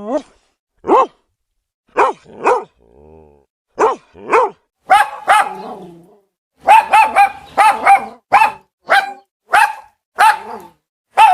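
Puppy barking: a string of short, high-pitched yapping barks, sparse at first and coming about two a second in the second half.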